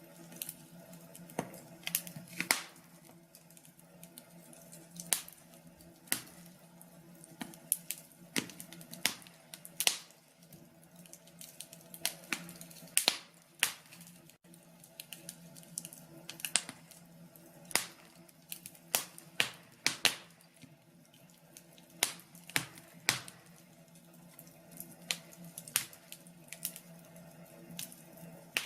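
Wood fire in a fireplace crackling: irregular sharp pops and snaps, clustered at times, over a faint steady hum.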